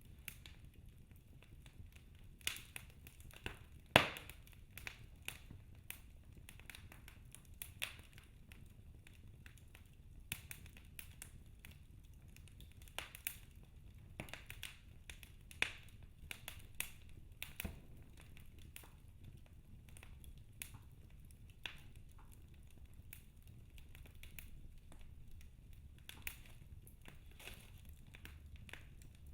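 Wood fire in a fireplace crackling: irregular sharp pops and snaps over a low steady rumble, with the loudest pop about four seconds in.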